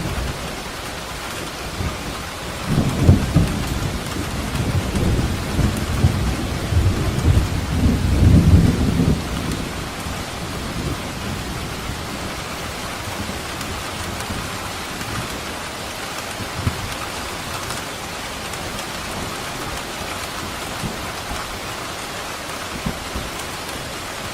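Steady heavy rain with a long roll of thunder rumbling from a few seconds in, swelling loudest near the middle, then fading back to rain alone.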